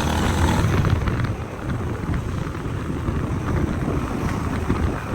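Steady low rumble of a moving vehicle, mixed with wind buffeting the microphone.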